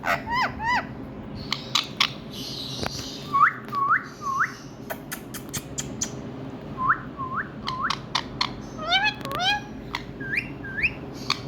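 Indian ringneck parrot giving short rising whistled calls in quick groups of two or three, with sharp clicks scattered between them, over a steady low hum.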